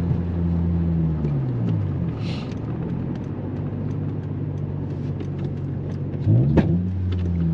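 Honda Civic engine heard from inside the car while driving: a steady engine note drops in pitch as the revs fall about a second in, then runs lower until a quick rise in revs near the end, with a sharp knock at its peak. The owner says the clutch is worn out.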